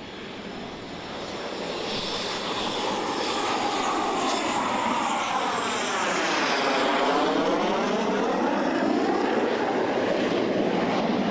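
X-47B unmanned jet aircraft making a low pass. Its engine noise grows louder over the first few seconds and then holds, with a sweeping, phasing sound that dips lowest about midway as it passes overhead.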